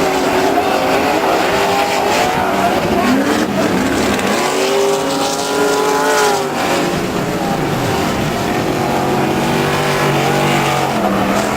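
Off-road race trucks' engines revving hard as the trucks race past. The pitch climbs and falls with throttle and gear changes, and more than one engine is heard at once.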